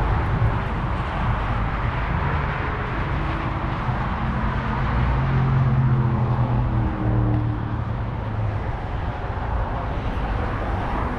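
A car engine running, its pitch stepping up and down a little, over steady outdoor background noise.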